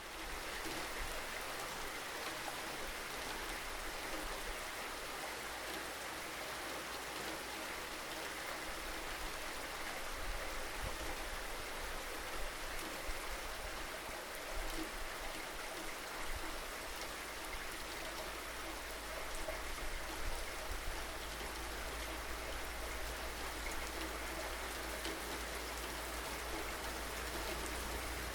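Steady rainfall, a dense even hiss of drops pattering on surfaces, with a low rumble underneath that swells about a third of the way in and again in the second half.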